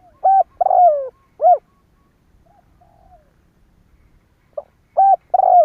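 Spotted dove cooing: two phrases of its call, each a short note followed by a few coos, one of them longer and falling in pitch. The second phrase begins about four and a half seconds in.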